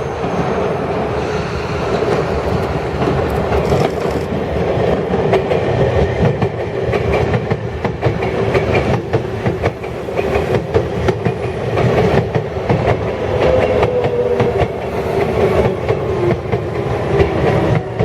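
Sagami Railway 8000 series electric train running on the line, its wheels clicking steadily over rail joints, with a motor whine that rises in pitch near the end.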